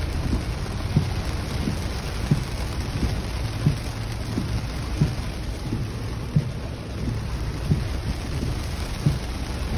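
Heavy rain falling on a truck's windshield and roof, heard from inside the cab as a steady dense hiss. Short low thumps come through it about every two-thirds of a second.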